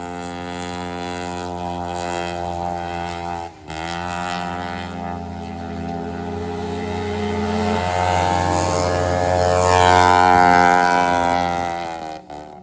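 Riding lawn mower engine running at a steady high speed, briefly dipping about three and a half seconds in, then getting louder toward ten seconds before fading near the end.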